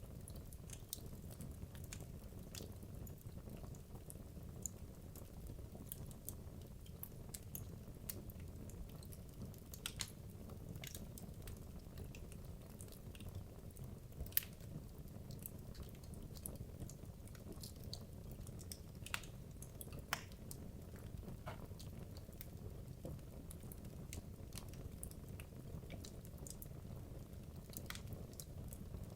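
Wood logs burning in a fireplace: a low steady rumble of flame with irregular sharp crackles and pops, a few louder pops standing out, one about 14 seconds in.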